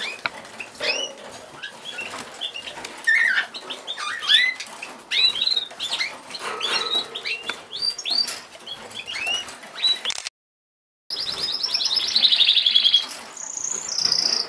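Cockatiels chirping with many short, quick calls. About ten seconds in the sound cuts out for under a second, then comes back with a fast run of rapid notes and a few steady, high whistled notes near the end.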